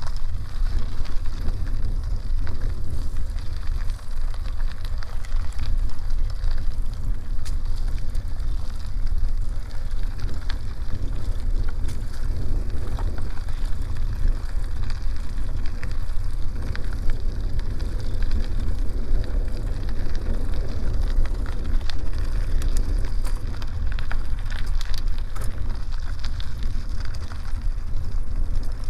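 Bicycle tyres rolling on a dirt road with a steady crackle and scattered small clicks, under a constant low rumble of wind buffeting the microphone.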